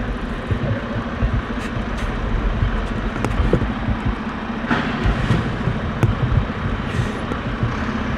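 Riding noise from an e-bike on the move: steady low wind rumble on the microphone with road and traffic noise and a faint steady hum.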